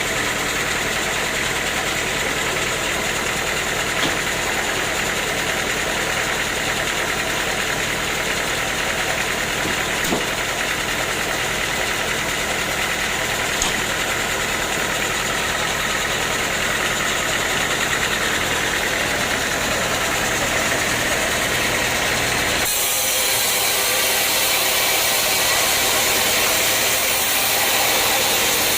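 Sawmill engine running steadily with a low rumble and a few faint clicks. About three-quarters of the way through, the sound switches abruptly to a hissier machine noise with little low rumble.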